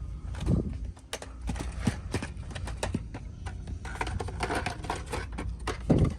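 Irregular plastic clicks and clacks of carded Hot Wheels cars being flipped through and knocked together on store pegs, with a couple of heavier knocks.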